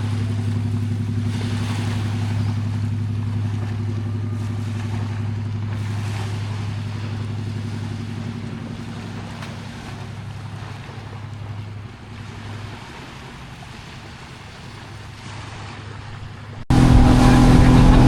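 Motorboat engine running with a steady low hum over wind and water noise. It slowly fades, then near the end it cuts abruptly to a much louder engine sound.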